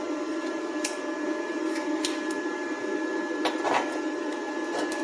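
Inverter welding machine running with a steady hum and a thin high whine, with a few light metallic clicks and taps about one, two and three and a half seconds in.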